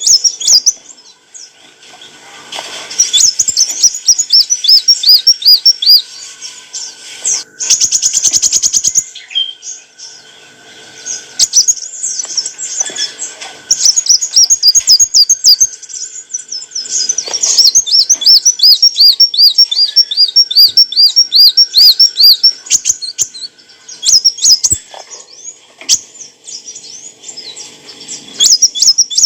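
Kolibri wulung sunbird singing: rapid, high-pitched twittering and long runs of quickly repeated looping notes in bursts, with a brief buzzy rattle partway through.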